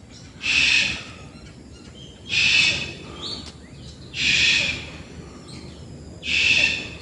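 A bird giving a harsh, hissing call four times, each about half a second long and evenly spaced about two seconds apart, with faint chirps of other birds behind.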